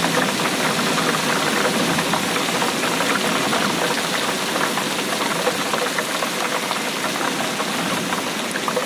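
Steady rain falling, a dense, even patter of many small drop impacts.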